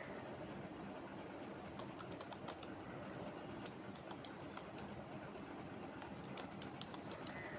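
Computer keyboard typing in uneven runs of keystrokes over steady low background noise. One run starts about two seconds in and lasts about two seconds, and another comes near the end.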